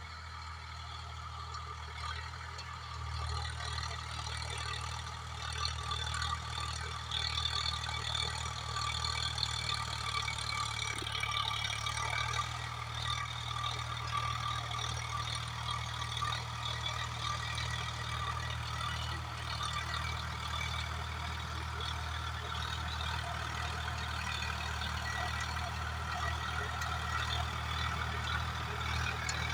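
Swaraj 744FE tractor's three-cylinder diesel engine running steadily under load while driving a Shaktimaan rotavator, with the rotavator's clatter of blades through soil over the engine drone. The sound grows a little louder about three seconds in.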